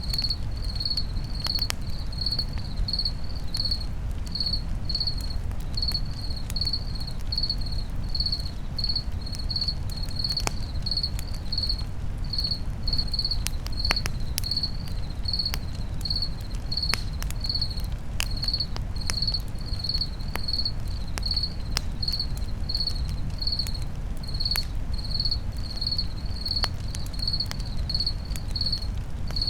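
Campfire crackling with scattered sharp pops over a steady low rumble of burning, while a cricket chirps evenly about twice a second throughout.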